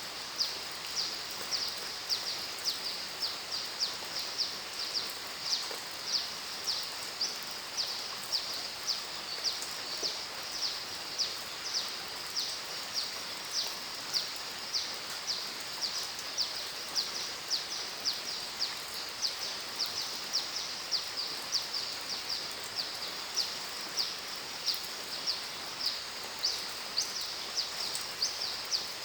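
Steady hiss of rain, with a high, regular chirping from an animal about twice a second running through it.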